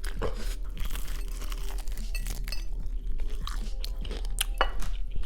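Close-miked crunchy chewing of fried chicken, a string of irregular sharp crunches, with soft background music underneath.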